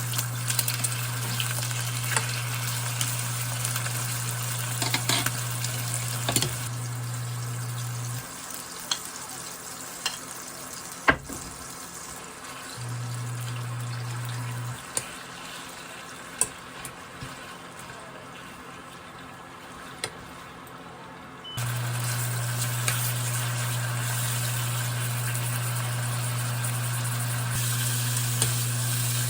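Food sizzling in a frying pan, with scattered clinks and taps of utensils against cookware. A steady low hum runs underneath, drops out about a third of the way in, and comes back for the last quarter.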